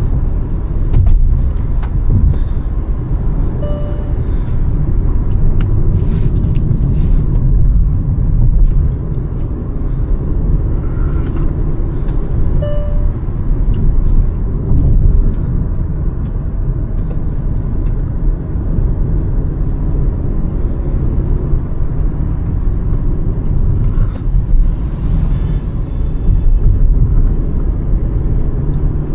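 Hyundai Verna 1.5 turbo-petrol engine and road noise while driving: a steady low rumble with scattered short clicks and a few faint short beeps.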